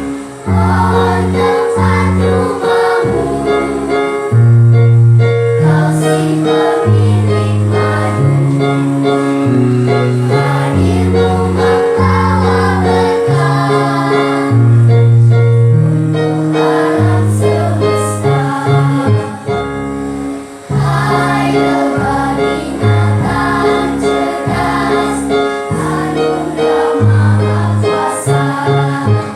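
Children's choir singing a song in practice, over a keyboard accompaniment with held bass notes that change every second or two.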